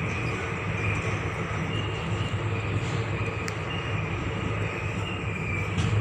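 Hassan–Solapur Superfast Express passenger coach rolling along the track: a steady low rumble of wheels and running gear, with a faint high ringing note coming and going.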